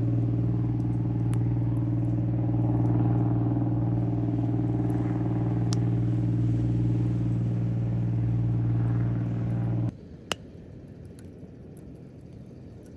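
A steady low machine hum that stops abruptly about ten seconds in, followed shortly by a single sharp click.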